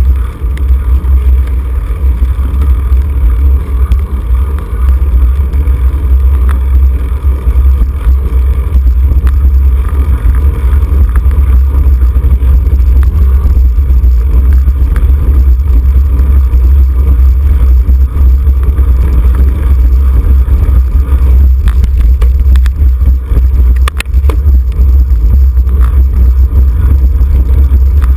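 Wind buffeting the microphone of a camera on a racing bicycle at speed: a loud, steady low rumble, with a few sharp clicks about three-quarters of the way in.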